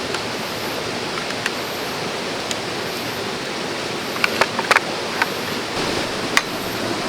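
A stream of running water rushing steadily, with a few short sharp clicks and taps about four to six and a half seconds in.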